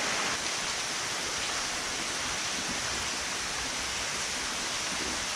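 Steady, even hiss with no distinct events, strongest in the high range.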